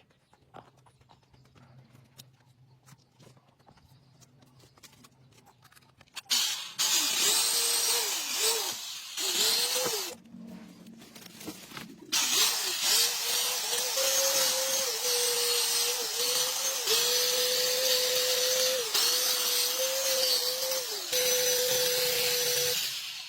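Restored electric chainsaw running: the motor starts about six seconds in, stops around ten seconds, then runs again from about twelve seconds, its whine dipping briefly in pitch several times.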